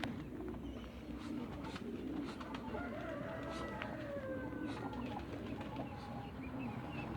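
Farmyard birds calling: a steady run of low, wavering cooing calls, with a few fainter gliding higher calls near the middle and scattered light clicks.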